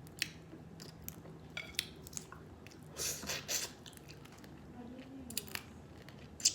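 Close-miked chewing of steamed blue crab, with scattered sharp clicks and crunches of shell, loudest in a cluster of crackling about three seconds in.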